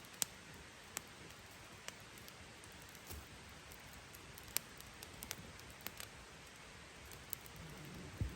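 Campfire crackling: scattered sharp snaps and pops at irregular intervals over a faint steady background hiss, with a duller knock near the end.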